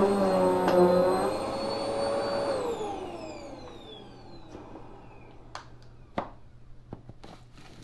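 Vacuum cleaner motor running with a steady whine, then switched off about two and a half seconds in; its pitch falls away as the motor spins down. A few light clicks follow near the end.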